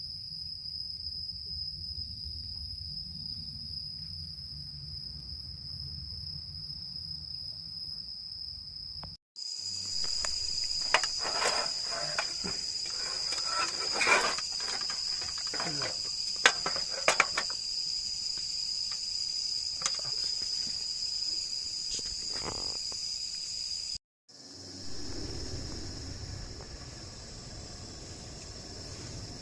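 Insects chirring outdoors in one steady, high, continuous trill. Through the middle stretch, scattered sharp clicks and knocks sound over it.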